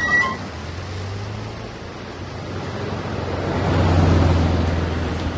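A vehicle engine with a low hum and rushing noise, swelling to a peak about four seconds in and easing off like a car passing.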